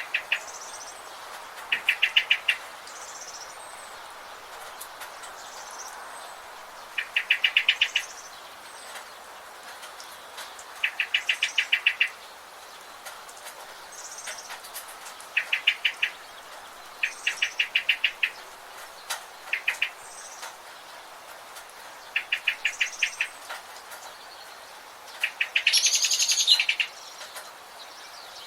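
A bird calling again and again in short rapid trills, each a quick run of about a dozen clipped notes lasting under a second. Softer high chirps come in between, over a steady hiss of forest ambience. Near the end one call is longer and louder.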